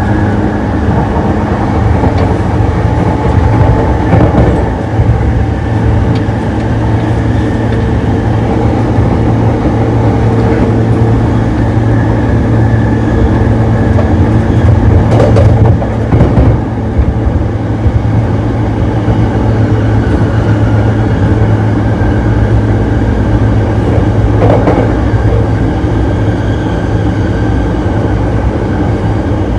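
JR East E233 series electric commuter train running at steady speed, heard from inside the gangway between two cars: a loud, constant rumble of wheels and car body under a steady hum from the drive. A few short clanks are heard along the way.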